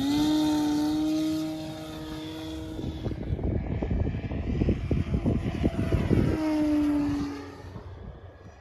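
RC model airplane's motor and propeller buzzing at a steady pitch, rising slightly at the start. For about three seconds in the middle the tone drops out under a rough, crackling rumble. The propeller tone then returns briefly and fades away near the end.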